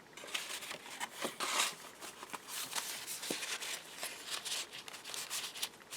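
Paper and card being handled: rustling and swishing of sheets with light ticks and taps as journal pages and cards are moved.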